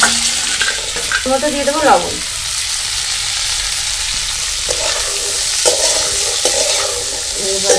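Sweet corn kernels sizzling as they fry in butter in a metal wok, while a steel spatula stirs and scrapes them around the pan.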